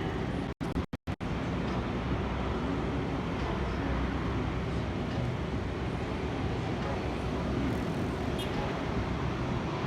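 Steady outdoor rumble of distant vehicles, with the sound cutting out three times in quick succession about a second in.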